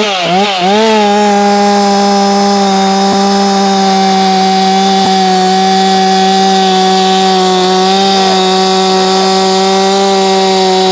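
Ported Efco 165 two-stroke chainsaw blipped a few times, then held wide open at a steady pitch, running at about 11,600 RPM.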